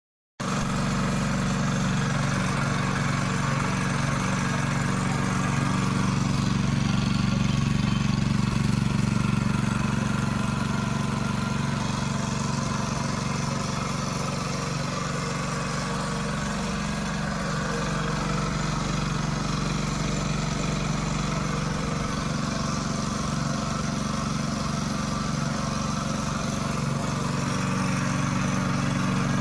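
Small petrol engine running steadily at a constant speed, cutting in abruptly about half a second in.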